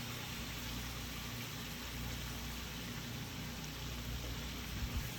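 Potatoes sizzling as they fry in a pan, a steady hiss with a low hum underneath. A few low thumps near the end.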